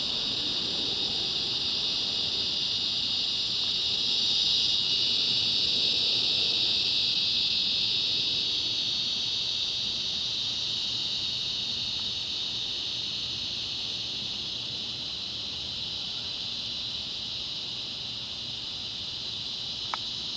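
Chorus of cicadas singing, a steady high-pitched shrill buzz that swells a few seconds in and then slowly fades. Under it, the faint low rumble of a departing airplane dies away over the first several seconds, and a single click sounds near the end.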